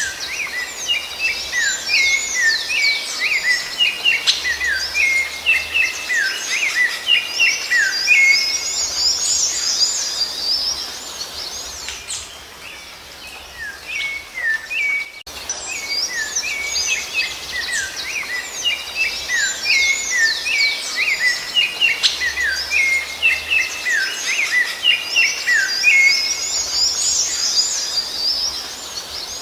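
Rufous-bellied thrush (sabiá-laranjeira) song: a rapid run of varied whistled and chirped notes for about twelve seconds, a short lull, then the same passage again.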